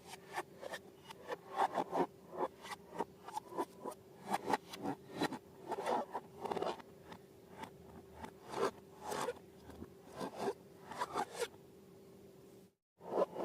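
Slime being squished and worked by hand: irregular sticky crackles, clicks and squelches, with a short break in the sound near the end.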